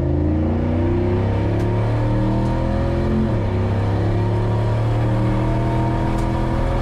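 Boosted LS V8 of an El Camino accelerating at full throttle, heard from inside the cabin. The engine note climbs, drops suddenly about three seconds in at an upshift, then climbs again.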